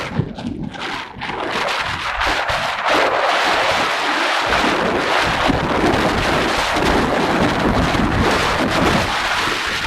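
Wind buffeting the microphone: a dense rushing noise that grows louder about three seconds in and then holds steady.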